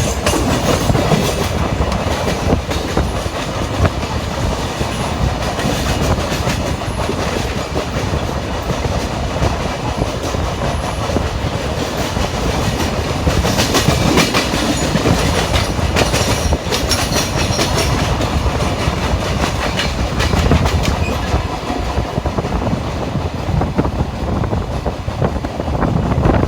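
Train running at speed on the rails, a steady rumble with the wheels clicking and clattering over the track, the clatter growing sharper for a few seconds midway.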